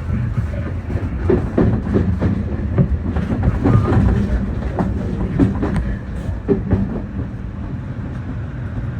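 Keio Inokashira Line electric train running along the track: a steady low rumble from the running gear, broken by many irregular clicks and clacks as the wheels pass over rail joints and points.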